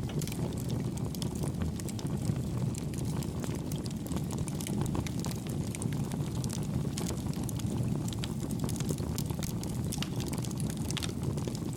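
Campfire burning with a steady low rush of flame and soft, scattered crackles and pops.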